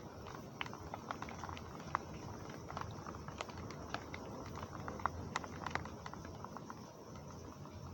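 Rain falling steadily, with many sharp, irregular drops tapping on a hard surface.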